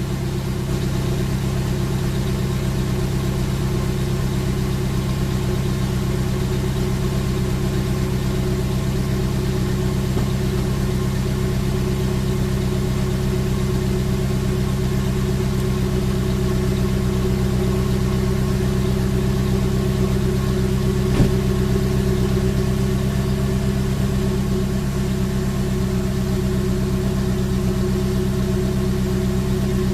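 Volkswagen Passat's 4.0-litre W8 engine idling steadily, with one brief click about two-thirds of the way through.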